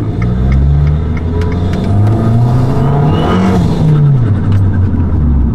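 A tuned Abarth's turbocharged four-cylinder engine accelerating, heard from inside the cabin. The revs climb, drop at a gear change partway through, climb again, then ease off near the end.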